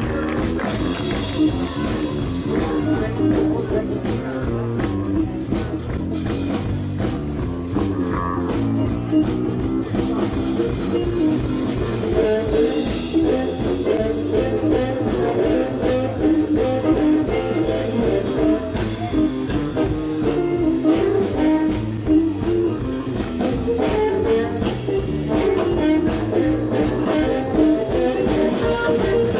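Live blues-rock band playing an instrumental passage: electric guitar, bass and drum kit, with no singing.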